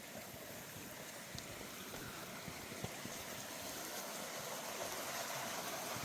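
Steady rush of running water, slowly growing louder, with a few faint clicks.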